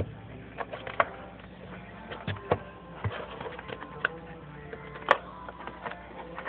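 Background music under irregular clicks and scrapes of a knife cutting slots in a cardboard box. The sharpest click comes about five seconds in.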